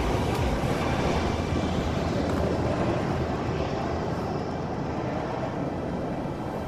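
Jet airliner engine noise, a broad rush that fades steadily as the aircraft moves away.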